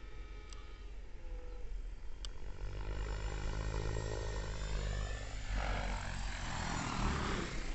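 Neo Caliber 50 radio-control helicopter's carbureted glow engine and rotors running in flight. The sound grows louder about two and a half seconds in, and a rushing sound of rotor wash joins near the end.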